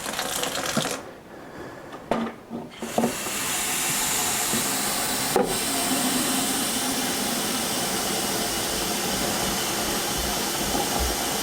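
Tap water running steadily into the coffee machine's water tank, starting about three seconds in after a few knocks from the tank being handled; one sharper knock about five seconds in.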